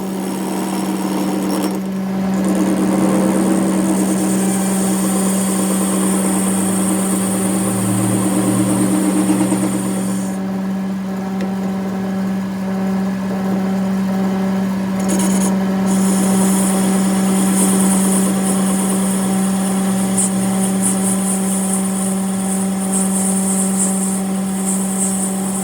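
A workshop machine running steadily, with a constant hum and a high-pitched hiss that drops out for about five seconds partway through, then returns.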